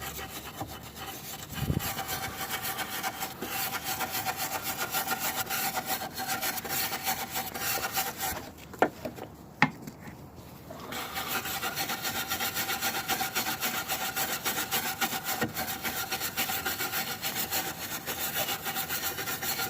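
Wire brush scrubbing back and forth on the rusty metal of a truck's battery stand, in quick, even strokes. It stops for a couple of seconds about halfway through, with two sharp clicks, then starts again.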